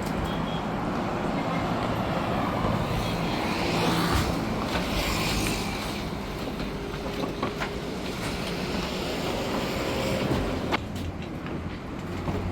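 A truck's engine running with a steady low rumble and scattered rattling clicks.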